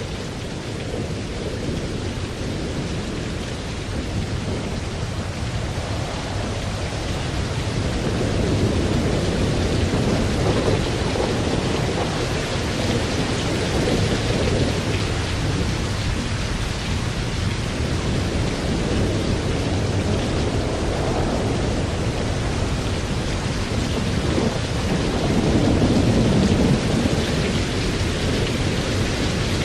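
Steady rain with rolling thunder: the low rumble swells a few seconds in and again near the end.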